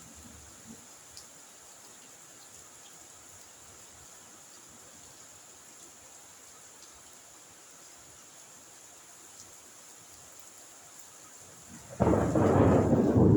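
Steady faint rain, then near the end a sudden loud crack of thunder that goes on rumbling.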